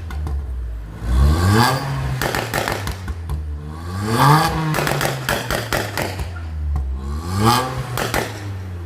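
Volkswagen Polo GT with a straight-piped exhaust and downpipe, super loud, revved hard three times. Each rev climbs and falls back, and the exhaust crackles in between.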